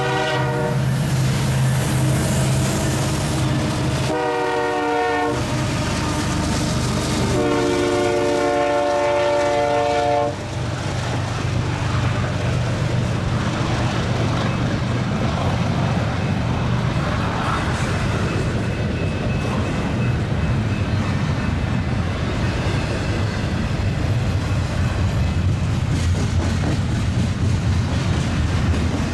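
Union Pacific diesel freight locomotive horn sounding at the grade crossing: a blast ending about half a second in, a short blast around four seconds, and a longer one from about seven and a half to ten seconds, over the rumble of the locomotives powering up. After the horn, double-stack container cars roll past with a steady rumble and wheel clatter.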